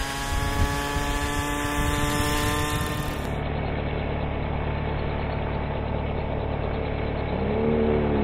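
Engine and rotors of a 1/6 scale Century Bell 47G-II radio-controlled model helicopter running. About three seconds in the sound changes abruptly to a duller, steady low drone, and near the end a brief whine rises and falls in pitch.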